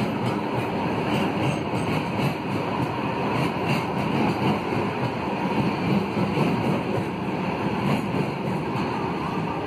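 Covered freight wagons rolling past at speed, a steady rumble and clatter of steel wheels on the track.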